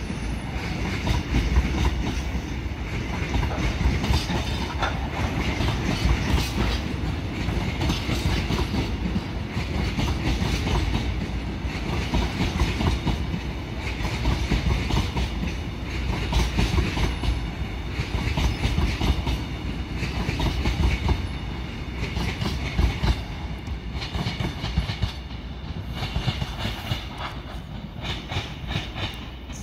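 Freight train of cement tank wagons rolling past, steel wheels clattering over the rail joints over a steady rumble. A burst of clatter comes about every two seconds as each wagon's wheelsets go by, and the sound eases slightly near the end.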